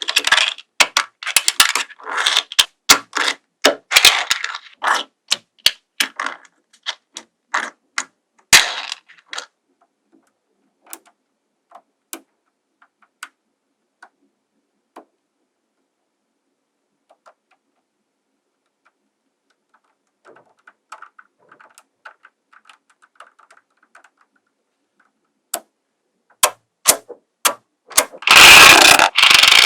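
Small magnetic balls clicking and snapping against each other as they are pulled off and placed on a model: rapid clicks at first, then scattered single clicks, a soft rattle, and a loud dense clatter of many balls near the end.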